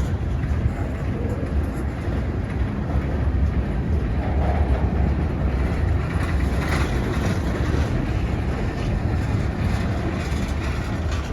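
Freight train rolling past: a steady low rumble of wheels and cars on the rails, with no horn or bell.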